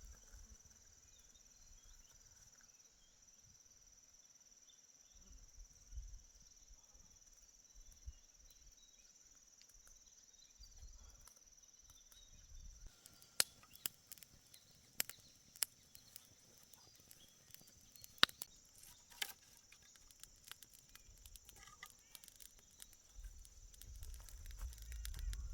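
Steady high insect chorus, like crickets, with low rumbles. From about halfway, scattered sharp clicks and knocks, and a louder low rumble near the end.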